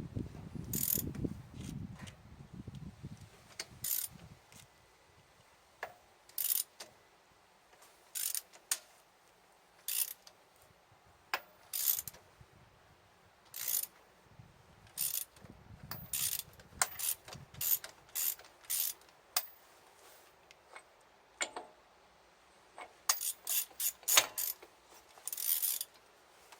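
Irregular sharp mechanical clicks and ratcheting from a hand tool working on a truck wheel, about one every second or two and coming faster near the end, with low rumbling at the start.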